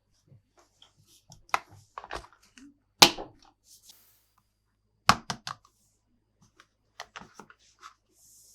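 Plastic toy pieces handled by hand, giving irregular clicks and knocks, with two sharper knocks about 3 and 5 seconds in.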